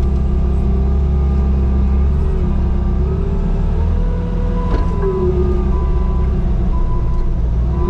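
Bobcat T595 compact track loader's diesel engine running under load, with a hydraulic whine that rises and falls in pitch over a steady low rumble. About five seconds in, after a click, a back-up alarm starts beeping about once a second.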